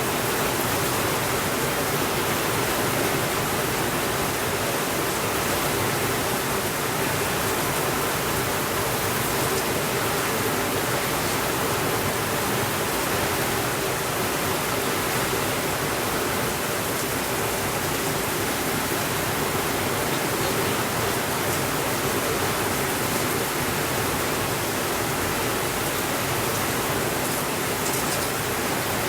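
Steady rainfall: an even, unbroken hiss of rain, with a few faint ticks near the start and the end.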